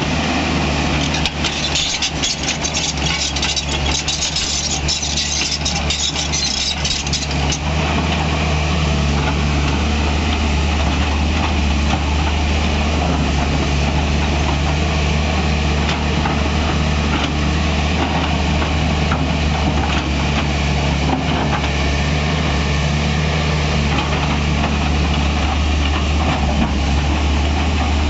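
Tata Hitachi EX200LC Super hydraulic excavator's diesel engine running steadily. For the first seven seconds or so a dense clattering rides over it.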